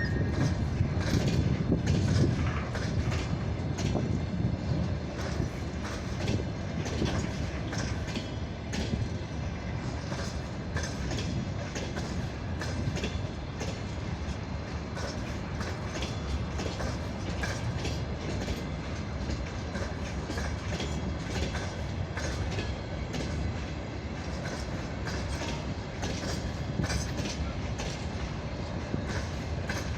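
Freight train rolling past, its wheels clacking over the rail joints in a steady stream of knocks over a continuous rumble.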